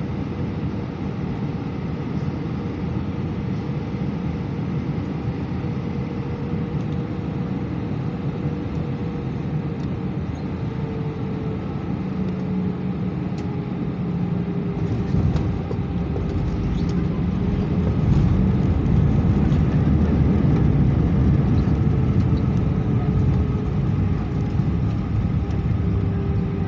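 Airbus A319 cabin noise heard from a window seat: a steady rush of jet engines and airflow with faint steady whining tones that drift slowly lower. The deep rumble grows louder about halfway through.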